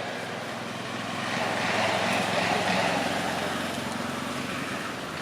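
A motor vehicle's engine running, growing louder around the middle and easing off toward the end.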